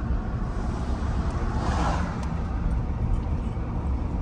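Pickup truck running, a steady low engine and road rumble, with a brief swell of hiss about two seconds in.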